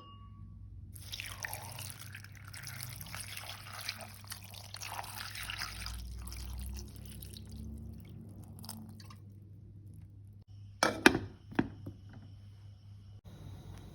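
Running water for about six seconds, splashing and trickling. A few sharp knocks follow near the end, the loudest sound in the stretch.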